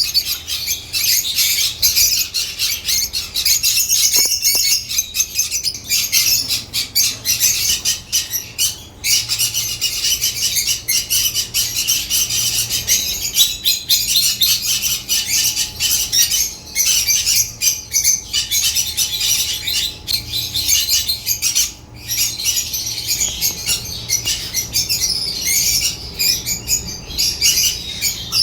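African lovebirds chirping and squawking, a dense, rapid, high-pitched chatter that barely pauses.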